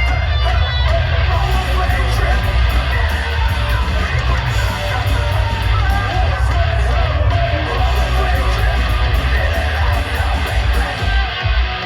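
Loud live heavy rock or metal band: distorted electric guitars over heavy bass and drums, with shouted vocals.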